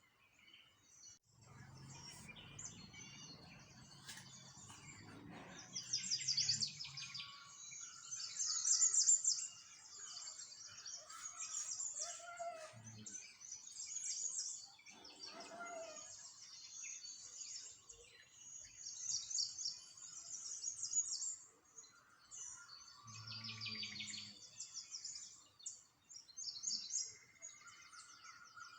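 Many small songbirds chirping and trilling in rapid, overlapping high-pitched bursts, with a faint low rumble twice in the background.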